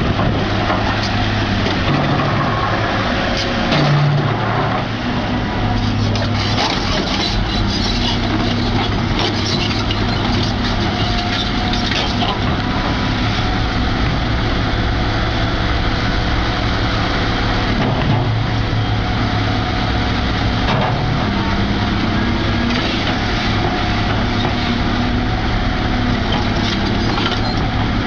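A heavy machine's engine running steadily, with repeated cracking and crunching sounds over it.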